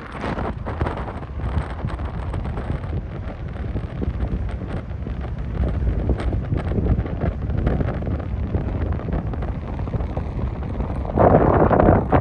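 Wind buffeting the microphone in a steady low rumble, growing louder and brighter about eleven seconds in.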